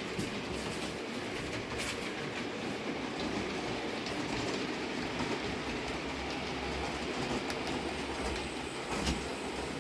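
Model train running on the layout's track: a steady whir of wheels and motor, with a few sharp clicks.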